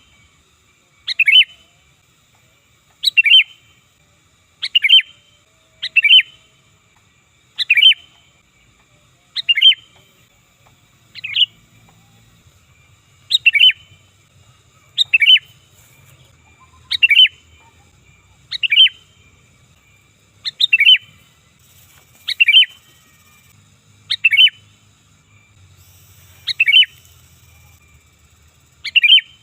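Sooty-headed bulbul (kutilang) calling loudly, a short sharp phrase repeated about every one and a half to two seconds, some sixteen times.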